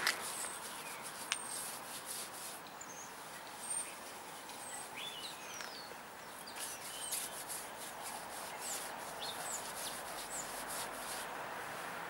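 Small birds chirping, short high calls and quick falling chirps scattered through, over a steady outdoor hiss, with one sharp click about a second in.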